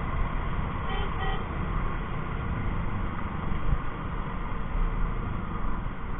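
Vehicle horn giving two short toots about a second in, over the steady low rumble of a motorcycle riding through city traffic.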